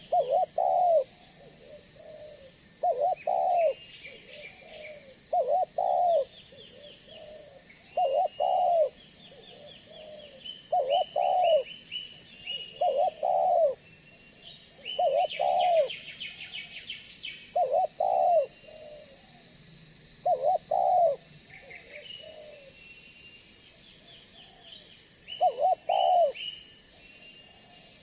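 Spotted dove (tekukur) cooing its short rolling phrase over and over, about every two and a half seconds. Smaller birds chirp at a higher pitch between the coos.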